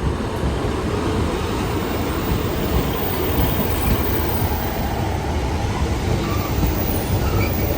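Diesel passenger train running on the line, a steady rumble and rush with no distinct engine note.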